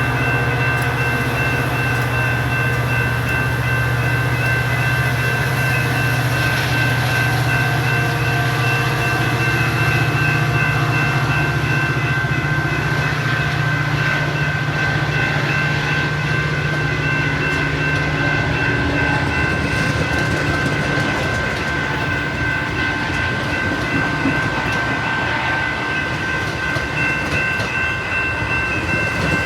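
Metra diesel commuter train running at the station: a steady low engine drone under a constant high whine, with wheel and rail noise. The low drone drops away about two-thirds of the way through.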